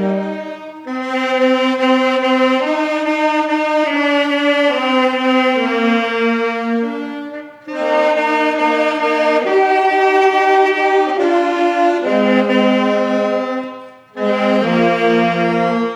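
Slow hymn melody of long held notes played on a wind instrument with a horn-like tone, in three phrases with short breaths between them.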